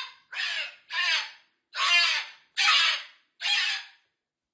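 Pet cockatoo screeching: five harsh, loud calls in a row, a little under a second apart.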